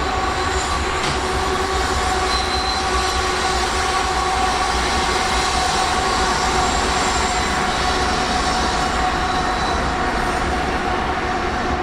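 A train rolling by, its wheels on the rails making a steady, loud running noise with a sustained whine over it.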